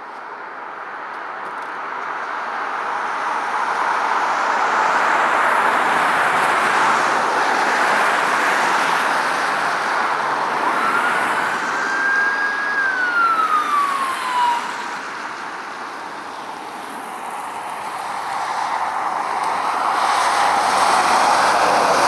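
Emergency vehicle siren sounding as the vehicle approaches, growing louder over the first several seconds. About halfway through one clear wail rises, holds and falls away, and the siren swells again near the end.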